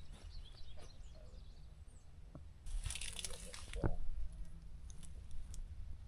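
Rustling and crunching of corn leaves and stalks, louder for about a second near the middle, over a steady low rumble.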